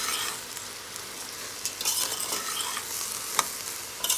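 Raw rice and lentils with onion being stirred and fried in oil in a stainless steel pressure cooker: a steady sizzle under the rasp of the grains being turned, with a few sharp scrapes of the spoon against the pot, the clearest about three and a half seconds in.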